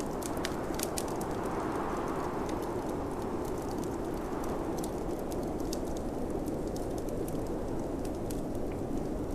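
Snowstorm wind blowing in slow gusts, swelling about two seconds in, easing off, then building again near the end. A wood fire crackles in a fireplace over it with scattered sharp pops.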